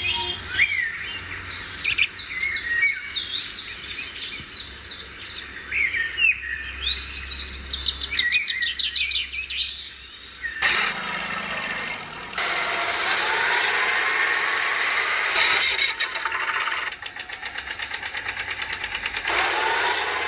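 Birds chirping repeatedly for about the first half. Then a motor starts up with a rising whine, pulses quickly near the end, and grows louder at the close.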